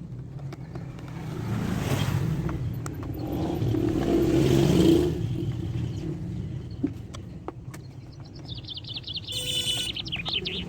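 A motor vehicle passing: a low rumble that swells over a few seconds and fades. Near the end comes a short run of quick, high chirps.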